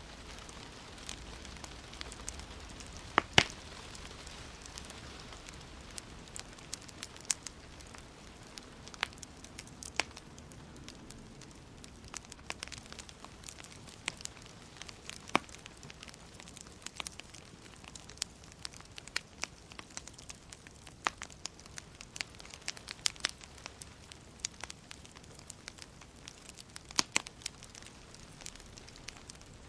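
Wood fire crackling in a fireplace: irregular sharp pops and snaps over a faint steady hiss, with a loud double pop about three seconds in and a burst of pops near the end.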